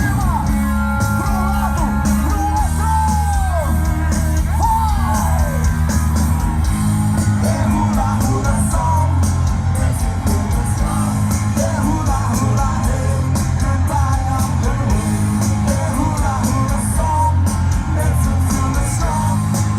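Live rock band playing loud, with electric guitar, bass and drums and a singer's voice over them.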